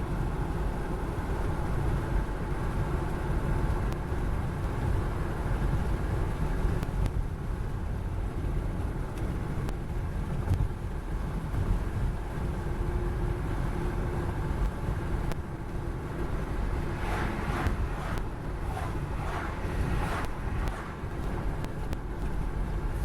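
Car driving with a side window rolled down: steady road and wind rumble inside the cabin.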